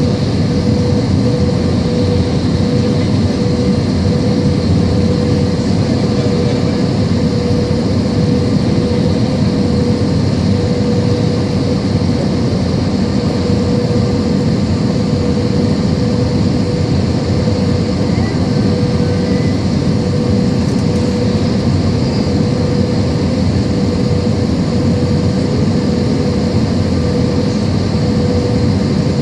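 Airbus A320 jet aircraft noise: a steady, unchanging drone with a constant hum running through it.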